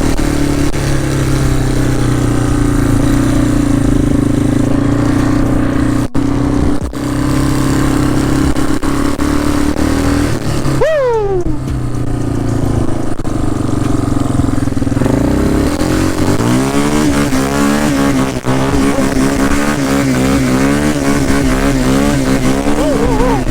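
Quad (ATV) engines running as the machines ride along. About 11 seconds in there is a quick falling whine. From about 16 seconds the engine pitch wavers rapidly up and down as the throttle is worked.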